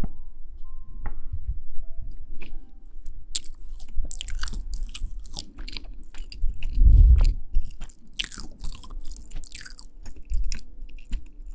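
Close-miked chewing and biting of food, with many crisp crackling clicks through the middle and a low thump about seven seconds in.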